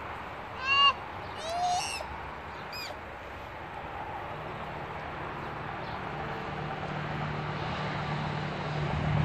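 A few short, clear bird calls in the first three seconds, the loudest about a second in, over steady outdoor background noise. From about halfway through, a low engine hum sets in and grows louder toward the end.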